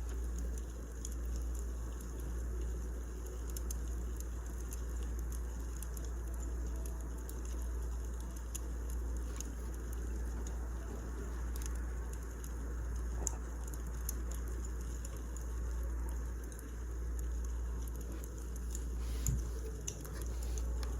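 Burning firewood crackling: a steady low rumble with many small scattered pops, two of them louder, about two-thirds of the way through and near the end.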